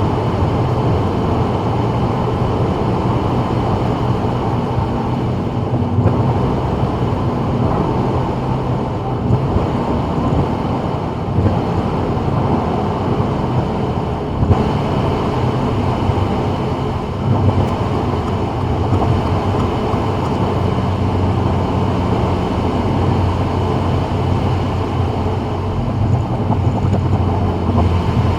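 A 2024 Subaru WRX driving on a rain-wet freeway: steady tyre and road noise with a low drone from the car.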